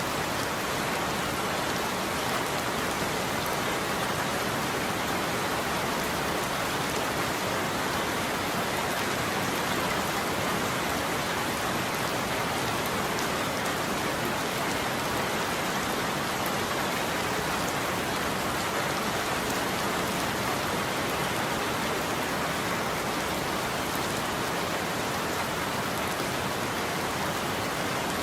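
Steady, even rain falling on a roof, with no thunder in this stretch.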